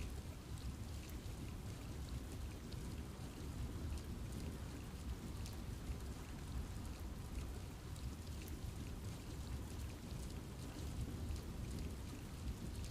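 Steady rain falling in a forest, a constant low rumble of rainfall with many scattered drops pattering on leaves.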